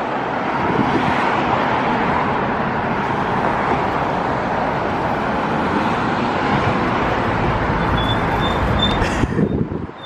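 Road traffic noise, a steady rush of passing vehicles, with a few short high beeps near the end before the sound cuts off abruptly.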